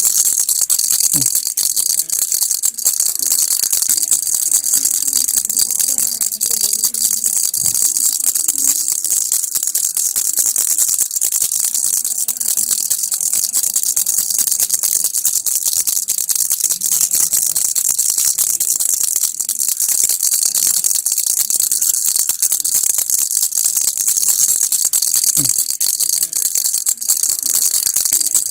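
Baby rattle (kilukki) shaken continuously, its beads making a steady, fast, bright rattle without pauses.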